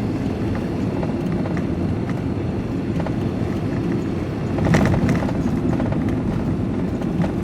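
Van driving along, a steady rumble of engine and road noise heard from inside the cab, with a short louder clatter about five seconds in.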